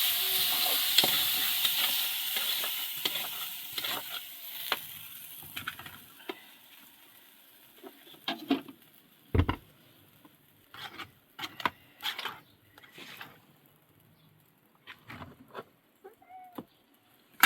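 Food sizzling as it fries in a hot pan, loudest at first and dying away over the first several seconds, then scattered light knocks and clinks with one heavier thump about nine seconds in.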